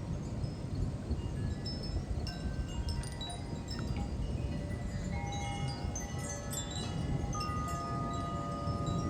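Wind chimes ringing in gusty wind, many tones at different pitches, struck more often from about halfway in, over a steady low rush of wind.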